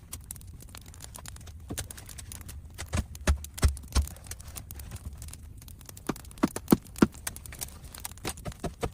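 Wooden branches knocking and clattering as they are handled and fitted together into a raised bed frame: a run of irregular taps and clicks, with a few sharper knocks in the middle and again a little past halfway.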